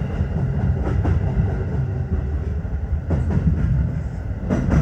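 Tokyo Metro 15000 series train rolling slowly into its final stop, a steady low rumble. Short clicks from the wheels over rail joints come about a second in, around three seconds in, and near the end.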